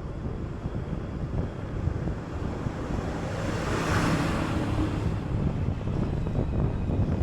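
City bus driving, a steady low rumble of engine and road with wind buffeting the microphone. About four seconds in, a hiss swells and fades again.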